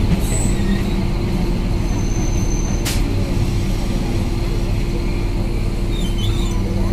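Trains running on neighbouring tracks: a loud, steady rumble and hum of a passenger train in motion, heard from the side of a coach. One sharp click sounds about three seconds in.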